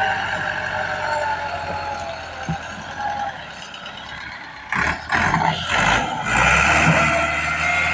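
Large 240-horsepower tractor engine running, suddenly getting louder and rougher about five seconds in.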